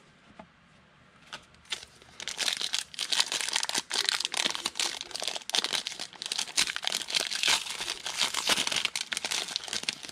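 Foil trading-card pack wrappers being torn open and crinkled, a dense run of crackling that starts about two seconds in.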